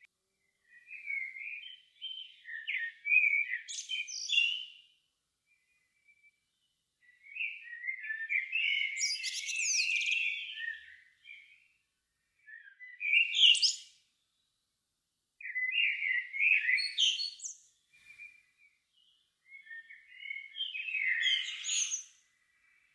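Songbird singing in five separate phrases, each one to four seconds long with short silent gaps between them. The notes are varied and quickly changing, and some phrases end in a high twitter.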